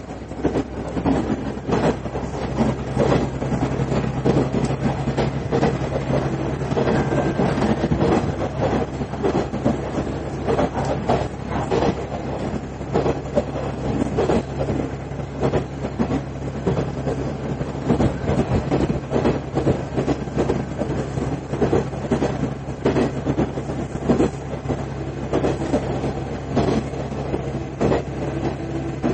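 Cabin sound of a KiHa 110 series diesel railcar under way: a steady low engine drone, with the wheels clattering and knocking over the rail joints throughout.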